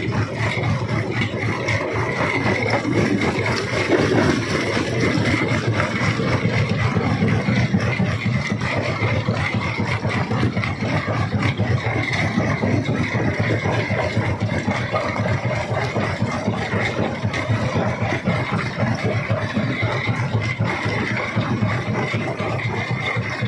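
Jaw rock crusher running steadily: a constant machinery drone with a dense rattle of stone being broken.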